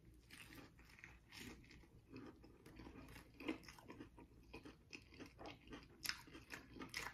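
Close-miked chewing of a fried catfish taco topped with a fried egg: a bite, then faint, irregular crackly mouth clicks, a few a second, loudest near the end.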